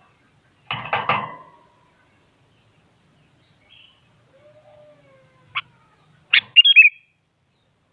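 Sooty-headed bulbul (kutilang) calling: a harsh burst about a second in, then a quick run of loud, sharp chirps near the end.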